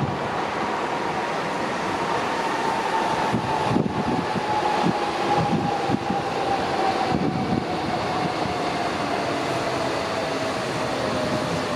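Docklands Light Railway train running past on its track as it comes into a station. Its motor whine slowly falls in pitch as it slows, and a run of wheel knocks over the rail joints comes in the middle.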